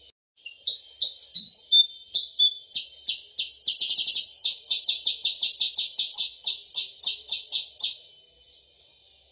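Recorded song of a kutilang sutra (percang), played as a bird-catching lure call: a string of sharp, high chirps that starts varied, then settles into a fast even run of about three or four notes a second. The song stops abruptly near the end.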